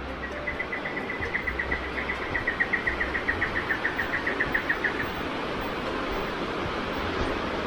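Steady rushing water from the rainforest creek and falls, under a rapid trill of about seven or eight evenly spaced, loud, high chirps a second. The trill starts just after the beginning and stops about five seconds in; the animal making it is not identified.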